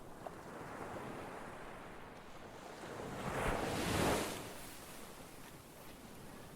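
Ocean waves breaking on a shore, one wave swelling to a crash about four seconds in and washing back.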